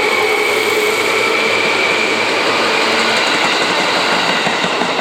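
Seibu 30000-series electric train running past at the platform: steady wheel and running noise with a high motor whine held over it.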